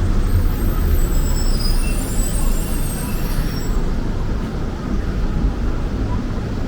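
Road traffic on a city street: a steady low rumble of passing vehicles, with a high-pitched squeal and hiss over it for the first half that stops just past the middle.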